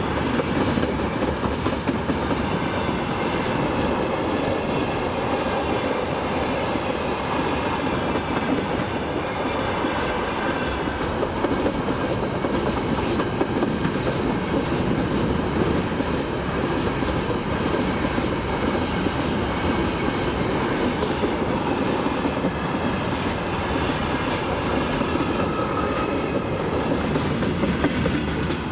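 Railway wagons rolling past at close range, their wheels clattering steadily over the rail joints.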